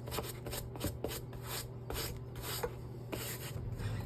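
Suede eraser rubbed over the suede upper of a Nike Dunk in quick, repeated strokes, a few per second, dry-cleaning dirt off the faded suede.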